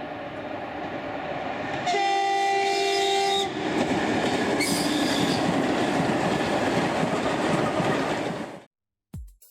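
A train running past with a steady rolling rumble. Its horn sounds once, a steady chord of about a second and a half, about two seconds in.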